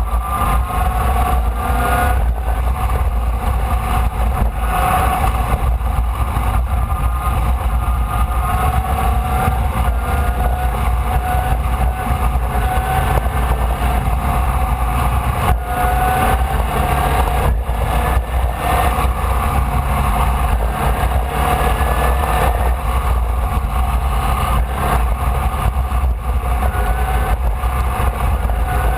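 Air-cooled Volkswagen flat-four engine of a Formula Vee race car, heard onboard and running hard. Its pitch climbs steadily several times and drops back each time as it shifts gear, over a heavy low rumble of wind and road noise.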